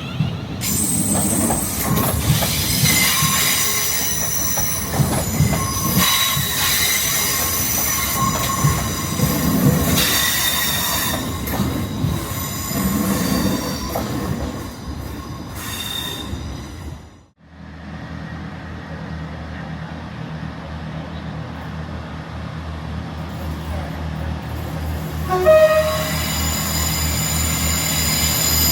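A passenger train moving through the station with high-pitched wheel squeal and rail knocks. After an abrupt cut about two-thirds through, a steadier low hum of a train, with a brief pitched tone near the end.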